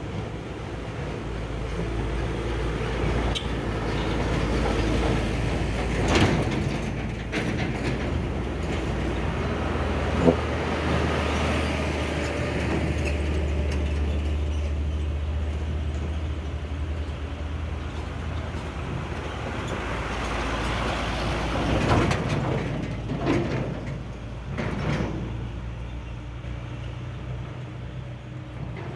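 Heavy diesel truck engine working steadily under load on a climb, its low hum swelling in the middle, with a few sharp knocks and rattles.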